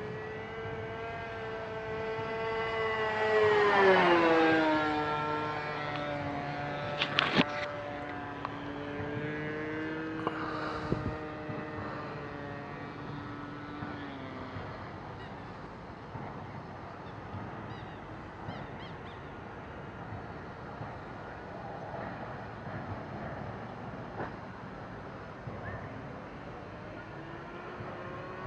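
Petrol-engined single-propeller radio-control model airplane flying past: its engine buzz swells to its loudest about four seconds in and drops in pitch as it passes. It then fades away and comes back faintly near the end. A few sharp clicks sound about seven seconds in.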